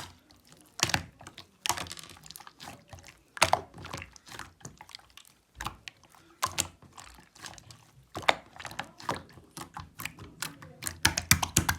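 Opaque slime squished and pressed by hand, giving irregular wet clicks and small pops that come faster near the end.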